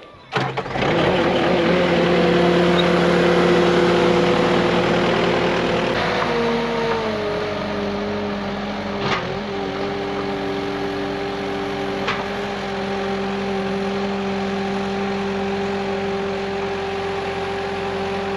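Bobcat S650 skid steer's diesel engine comes in suddenly about half a second in and runs steadily at a raised speed. About six to seven seconds in, the engine note steps down to a lower steady pitch. There are two sharp clicks, one near nine seconds and one near twelve.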